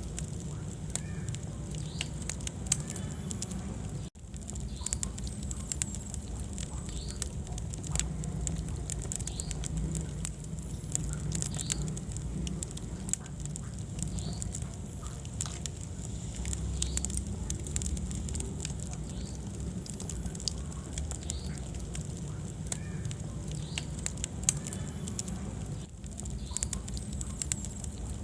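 Wood fire burning in a fireplace: a dense, irregular crackling and popping of the burning logs over a low, steady rumble of flame. The sound dips out for an instant about four seconds in.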